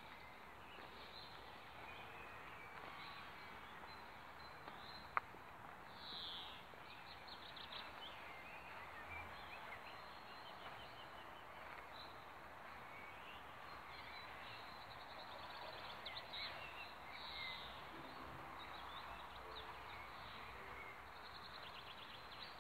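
Small birds chirping and trilling faintly over a steady outdoor hiss, with one sharp click about five seconds in.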